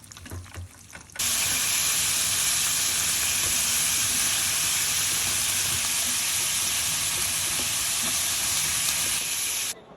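Food frying in hot oil in a pan, giving a steady, loud sizzle that starts suddenly about a second in and cuts off just before the end.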